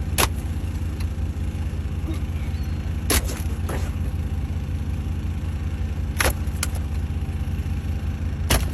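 A vehicle engine idling with a steady low hum, broken by half a dozen sharp thuds a second or two apart.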